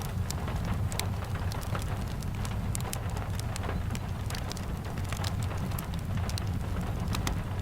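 Steady rain, with a low rumble and many scattered sharp ticks of drops throughout.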